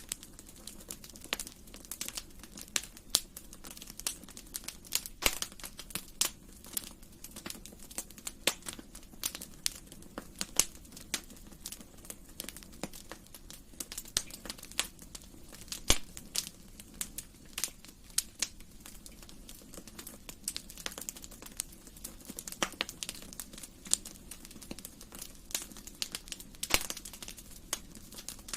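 Wood fire crackling in a fireplace: irregular sharp pops and snaps over a low steady hiss, with a few louder pops scattered throughout.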